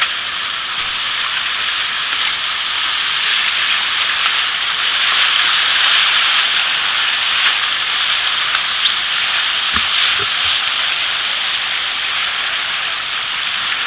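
River water rushing over rapids: a steady, loud hiss of whitewater.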